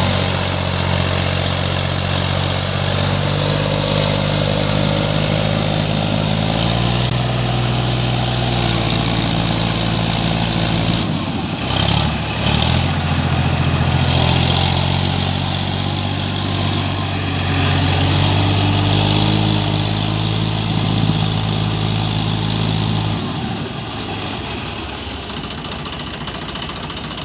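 New Holland 3037 tractor's three-cylinder diesel engine working hard to pull the tractor up through dry sand. Its pitch rises and falls several times. Late on, the engine note drops away and the sound gets quieter.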